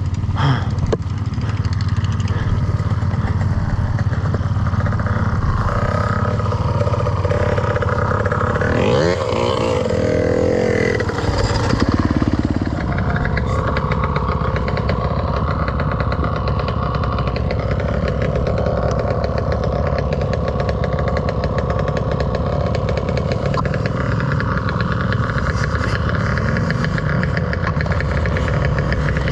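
Dirt bike engine running under way on a trail, its pitch swinging up and down about a third of the way in as the rider works the throttle, then running steadier.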